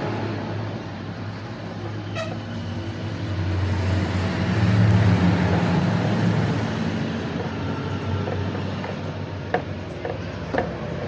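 A heavy engine or machine running with a steady low hum that swells and eases, with two sharp clicks near the end.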